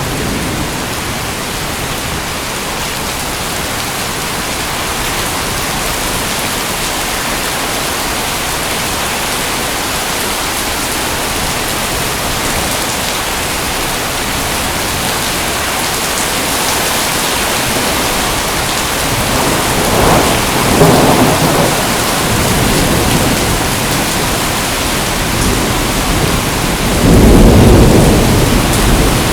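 Steady heavy rain hissing without a break, with thunder rumbling low twice: once about two-thirds of the way through and more loudly near the end.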